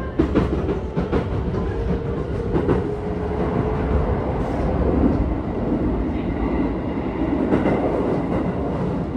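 Keisei 3000-series electric train with Toyo IGBT-VVVF control, heard from inside the passenger car while running: a steady rolling rumble with a thin motor tone that fades out about halfway through, and a few sharp clacks of wheels over rail joints.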